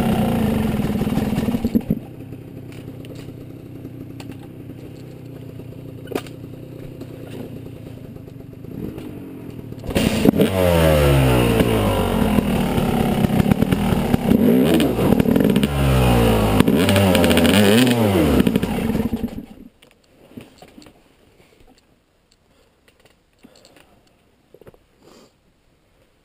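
Yamaha 250 dirt bike engine running, dropping to a quieter idle about two seconds in, then revved up and down several times before it cuts off abruptly about three-quarters of the way through, leaving only faint clicks.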